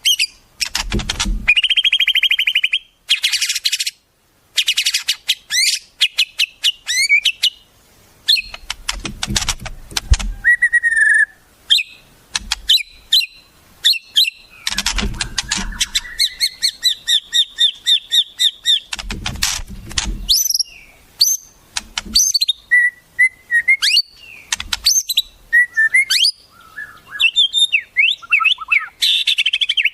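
Wild songbirds singing: fast, varied phrases of sharp whistles, rapid trills and buzzy rattles follow one another with barely a break. A few low thumps come about a second in and again near the middle.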